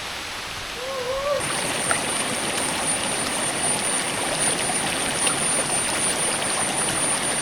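Monsoon rain falling in the forest, a steady hiss that grows louder about a second and a half in as the shower arrives, with a thin, steady high-pitched whine above it.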